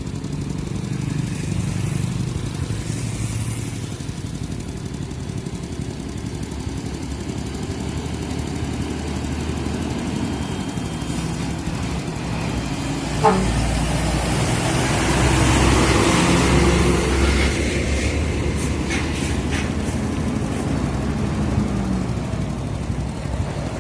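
Road traffic: a heavy diesel truck's engine running on the move, with tyre and road noise. A single knock comes about 13 seconds in, and the engine and road noise swell louder for a few seconds after it.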